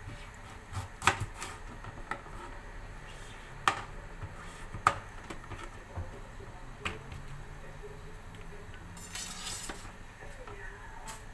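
Kitchen utensils clinking and knocking against a cooking pot, a handful of separate sharp clinks, with a brief hiss about nine seconds in.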